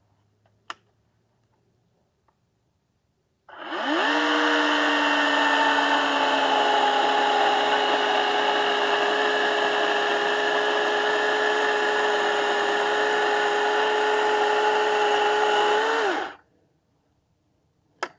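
Electric chainsaw motor spinning up quickly, running at an even speed for about twelve seconds, then winding down. A single click comes before it starts and another after it stops.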